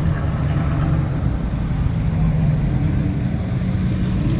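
Car engine running steadily, a low rumble.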